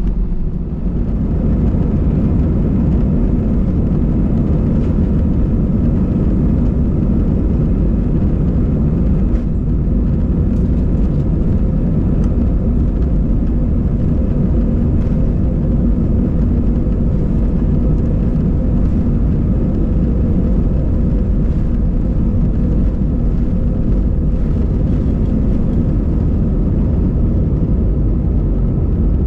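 Steady, loud rumble of an Airbus A320's jet engines and airflow, heard from inside the passenger cabin.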